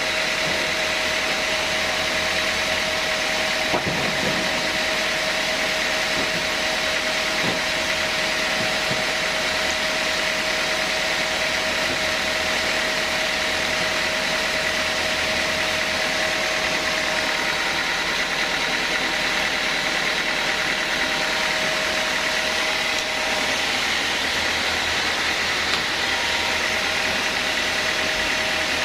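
Sawmill band saw running steadily: a constant machine noise with a steady high tone over it, and a couple of faint knocks about four and seven seconds in.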